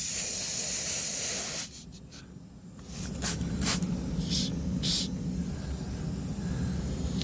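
Compressed air hissing steadily out of a puncture in a truck tire: the tire is leaking. The hiss cuts off abruptly about a second and a half in, then comes back in a few short spurts.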